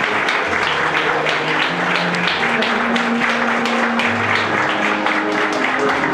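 Crowd applauding steadily, with background music underneath.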